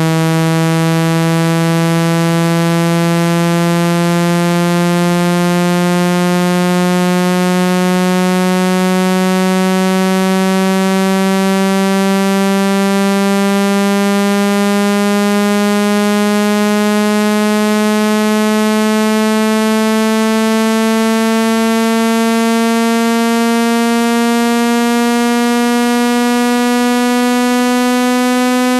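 Synthesized speaker-cleaning tone: a low, buzzy electronic note rich in overtones, held at a steady loudness while its pitch glides slowly and evenly upward. It is a sweep played through a phone speaker to vibrate dust out of the grille.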